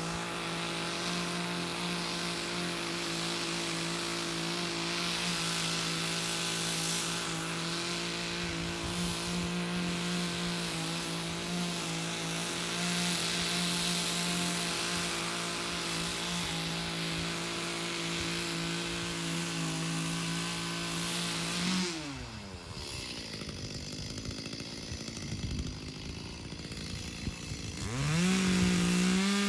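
Two-stroke chainsaw held at full throttle on one steady high note while cutting through a raw log. About three quarters of the way through, the note drops away to idle; near the end it is revved up once briefly and falls back.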